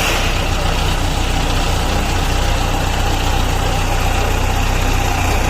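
Diesel engine of a heavy construction machine idling steadily.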